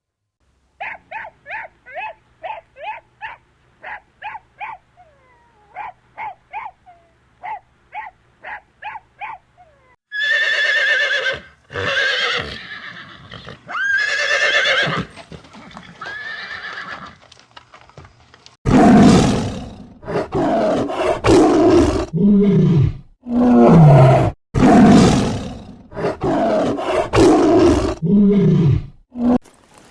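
Animal calls in three runs: first a series of short high chirps, about three a second, for roughly ten seconds; then several long pitched calls; then, from about two-thirds of the way in, louder and harsher calls.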